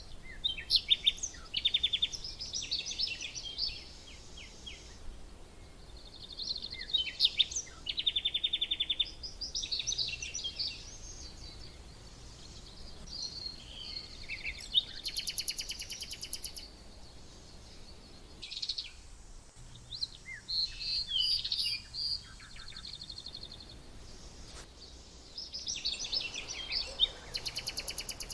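Small songbirds chirping and twittering in repeated bursts of quick high notes and rapid trills, with short pauses between bursts.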